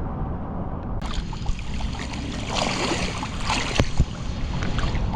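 Car driving through standing floodwater in heavy rain: a low steady rumble under a loud hiss of water spray. The spray starts suddenly about a second in and stops sharply near four seconds.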